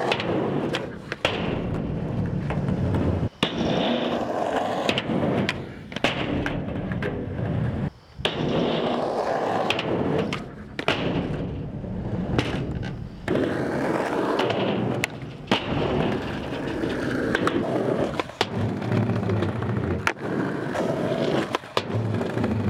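Skateboard wheels rolling on concrete, broken by brief gaps and repeated sharp clacks of the board being popped and landed.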